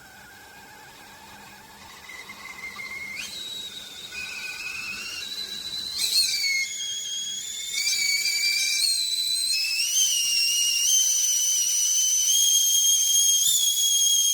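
Foedo 3.2-quart stainless steel stovetop whistling kettle coming to the boil. A faint, wavering whistle jumps up in pitch about three seconds in and grows louder, settling over the second half into a steady, loud high whistle: the sign that the water is boiling.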